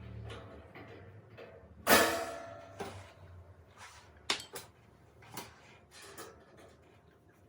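A loud clatter that rings on briefly about two seconds in, followed by a few lighter knocks and clicks, like objects or parts being handled and set down.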